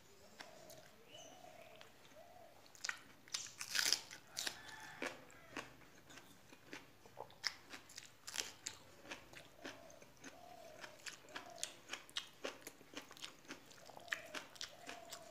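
Close-up chewing and crunching of a mouthful of water rice (pakhala) with bean and potato fry: a run of short crisp mouth clicks, a couple each second, beginning a few seconds in.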